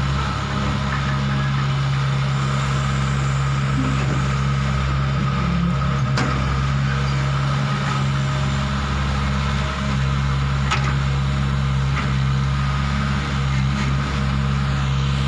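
Heavy-equipment diesel engine running steadily, a low even drone with a few faint clicks.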